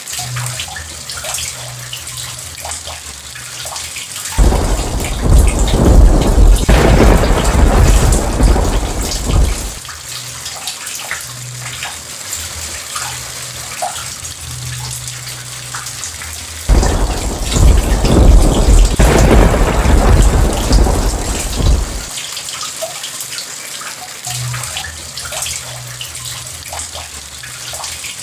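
Steady heavy rain with two long, deep rolls of thunder, each about five seconds, the first starting about four seconds in and the second about seventeen seconds in.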